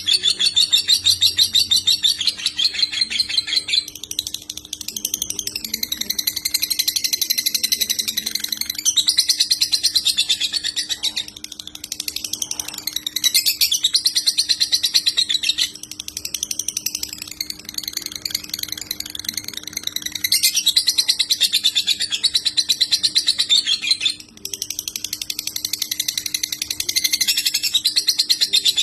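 Lovebird chattering in long unbroken runs of rapid, high trilled notes, the continuous 'konslet' chatter that bird keepers train for, broken by short pauses every few seconds. A faint steady hum runs underneath.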